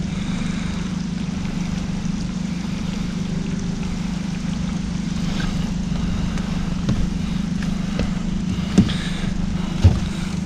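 Steady motor hum with a low rumble underneath, and two sharp knocks near the end.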